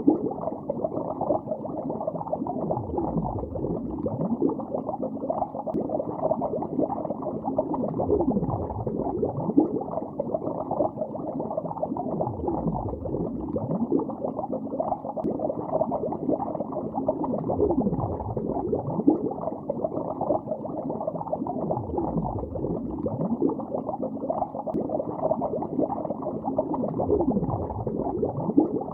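Continuous, muffled bubbling of air bubbles underwater in a lake, with deeper gurgling swells every few seconds.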